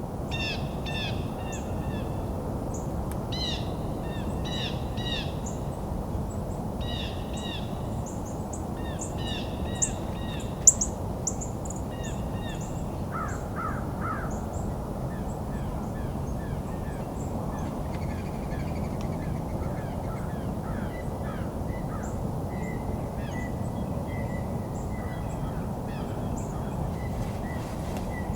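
Several wild birds calling: clusters of short repeated chirping notes through the first twelve seconds or so, then lower calls and scattered high notes, over a steady low background rumble. A single sharp tick stands out about eleven seconds in.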